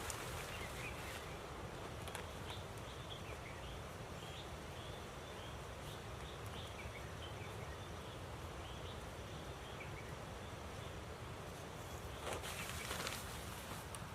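Steady rush of running water, with small bird chirps scattered over the first two-thirds. A short burst of louder rustling or clattering comes near the end.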